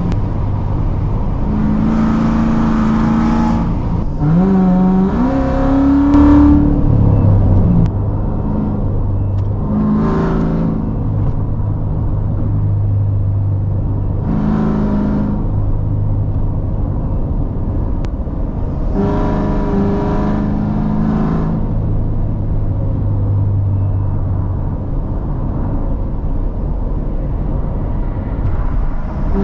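Straight-piped 2016 Corvette C7 Z06's supercharged 6.2-litre V8, with long-tube headers and an X-pipe, cruising with a steady exhaust drone. It is broken by several short bursts of throttle, with the pitch rising through one rev about five seconds in, the loudest moment.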